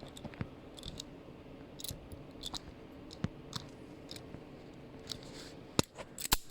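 Wire stripping tool clicking and snipping at the insulation of a cheap 10-gauge stranded copper wire: scattered sharp clicks, the two loudest near the end.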